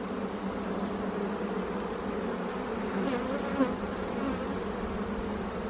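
Honeybee colony buzzing steadily around an opened hive as its frames are pulled for inspection.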